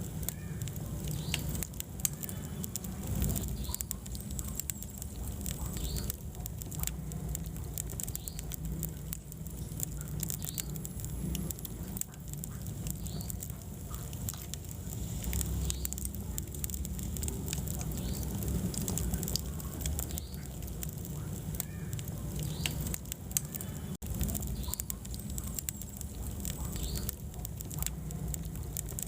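Wood fire burning in a fireplace, crackling with many small irregular snaps and pops over a low, steady rumble of the flames. There is a momentary dropout about three-quarters of the way through.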